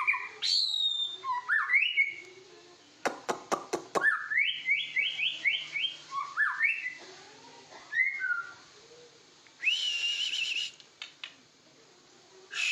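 White-rumped shama (murai batu) singing: loud rising whistled notes, a run of sharp clicks about three seconds in, then a quick string of rising notes and, near ten seconds, a held warbling trill.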